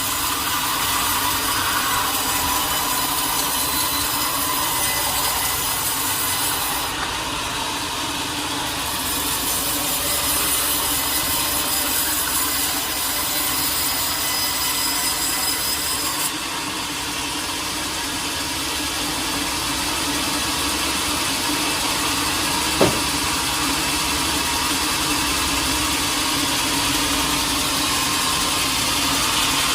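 Sawmill saw cutting through a large teak log, a steady running cut with the mill's motor underneath. A single sharp knock about three quarters of the way through.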